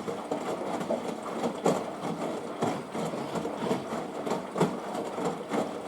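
Washing machine in a rinse, the drum motor turning and tumbling the wet load, with irregular splashes of water throughout.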